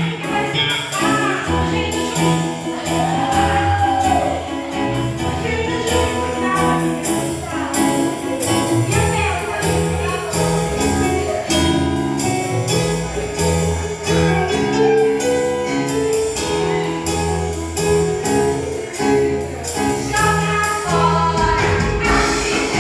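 Gospel worship song with sung voices over instruments and a steady beat.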